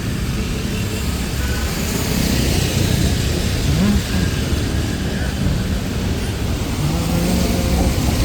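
Steady road traffic noise with faint voices mixed in.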